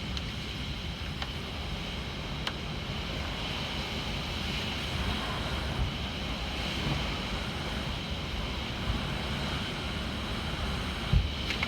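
Typhoon wind blowing hard and buffeting the microphone, with a steady hiss, a few faint clicks and a sharper thump near the end.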